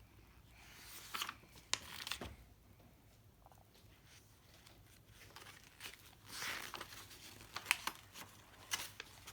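Paper rustling and small clicks as the pages of a picture book are handled and turned, with a longer rustle about two thirds of the way through and a few sharp ticks near the end.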